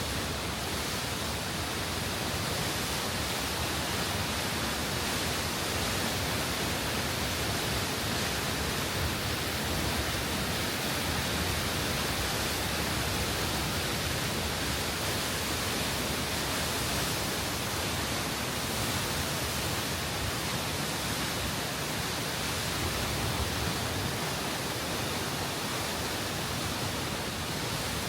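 Steady rushing of a large waterfall, High Force on the River Tees, where the river drops about 70 ft in one fall; an even, unbroken wash of water noise.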